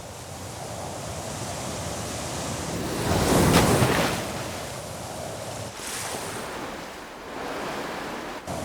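Sea waves breaking on a shore in strong wind. The surf builds to one loud wave crash about three seconds in, with a smaller surge near six seconds.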